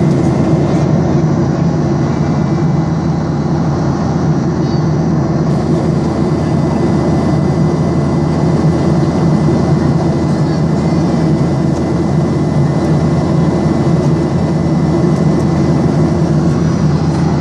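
Steady airliner cabin noise: the even drone of the jet engines and rushing air heard from inside the passenger cabin, with a constant low hum and a thin steady high whine.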